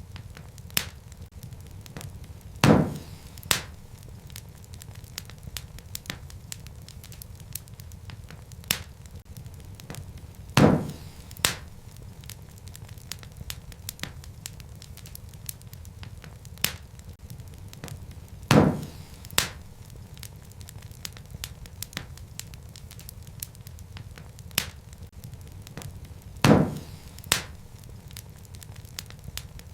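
Wood fire crackling in a fireplace: a steady low rumble of burning logs with scattered small crackles. Loud sharp pops come at even intervals of about eight seconds, each followed by a smaller pop a moment later.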